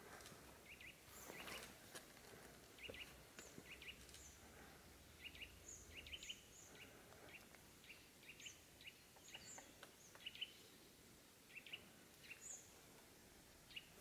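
Near silence with faint, short high chirps of small birds scattered throughout, often in quick pairs, and a few soft knocks.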